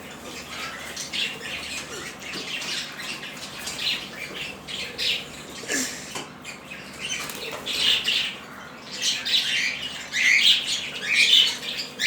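Pet lovebirds chattering: many short, high chirps and squeaks in quick succession, coming in louder clusters toward the end.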